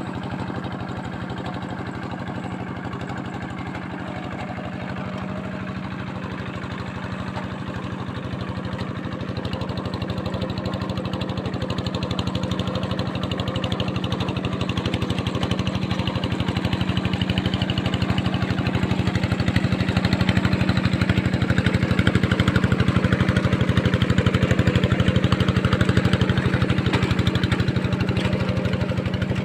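Tractor engine running steadily with an even firing beat. It grows louder from about a quarter of the way in and stays loud.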